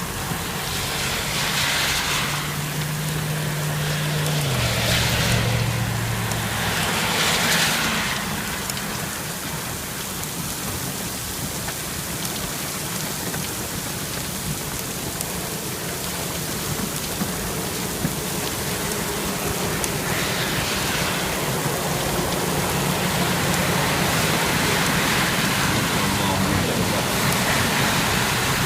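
Heavy rain on a moving car, heard from inside it: a dense, steady hiss of rain and road spray over the car's engine running low beneath it.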